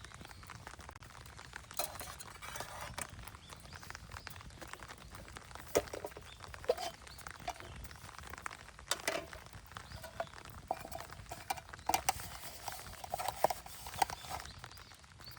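Scattered light knocks and short ringing metallic clinks, typical of a camp mess tin and utensils being handled while rice is prepared; the clinks come in small clusters, loudest about six, nine, twelve and fourteen seconds in.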